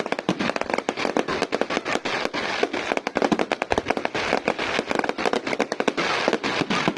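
Fireworks display going off in rapid succession: a dense, unbroken run of sharp crackles and pops, many per second.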